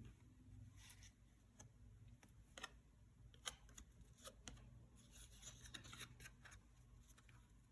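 Faint rustling and light clicks of trading cards and their packaging being handled, with a couple of sharper ticks a few seconds in and a denser patch of rustling near the end.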